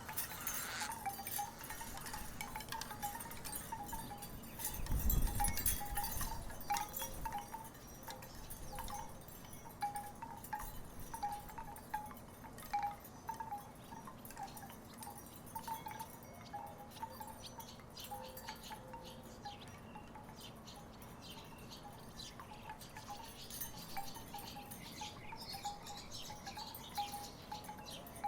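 Wooden tiki wind chimes knocking in the breeze: a continual scatter of short, hollow pitched clonks, some lower than others. A low rumble swells briefly about five seconds in.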